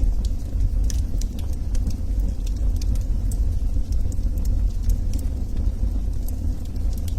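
Wood fire of burning logs in a fireplace: a steady low rumble of flame with frequent irregular sharp crackles and pops.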